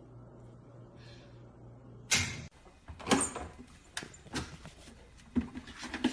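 A low steady hum, then a loud sudden thump about two seconds in, after which the hum is gone; then a run of irregular knocks and thuds, about five in three seconds.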